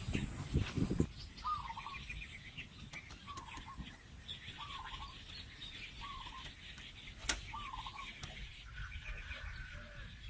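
Birds calling: one bird repeats a short, bending call about every second and a half, over fainter higher chirping. Dull knocks and rustling sound in the first second, and a single sharp click comes about seven seconds in.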